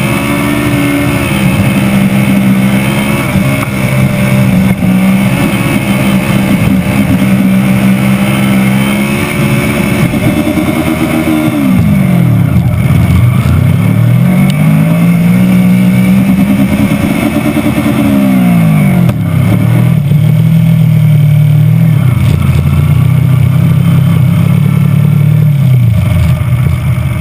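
Engine of a home-built tube-frame car running while driving. It holds a steady note, drops steeply about halfway through and revs back up, then dips again twice, the last time near the end, as the car slows and accelerates.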